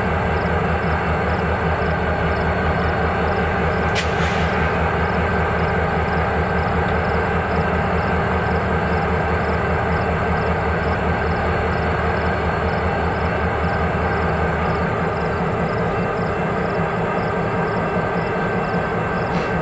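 A train rolling past, steel wheels running on the rails in a loud, steady noise, with one sharp click about four seconds in.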